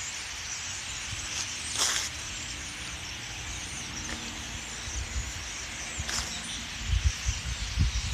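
A large flock of blackbirds chattering and calling all at once, a dense, continuous high twittering. Low rumbling buffets on the microphone come in near the end.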